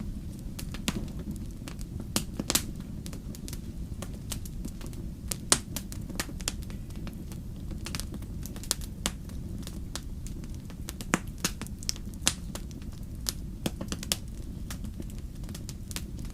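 Wood fire crackling: irregular sharp pops and snaps, a few louder than the rest, over a steady low rumble of burning.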